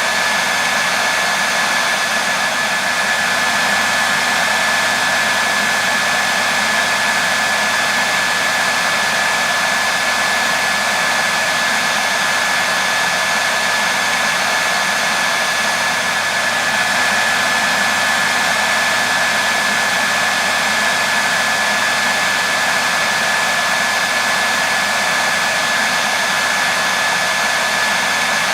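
Hair dryer blowing steadily: an unbroken rushing of air with a thin steady whine held throughout.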